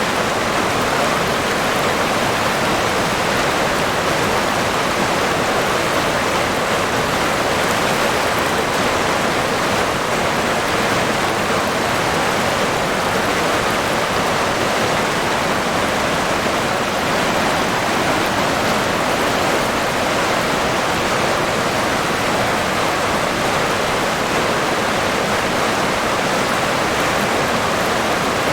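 River water flowing: a steady, even rush of running water with no breaks or single splashes.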